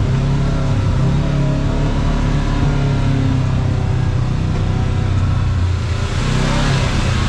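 Kawasaki KRX side-by-side's engine running steadily under way on a trail. A louder rush of noise comes in about six seconds in.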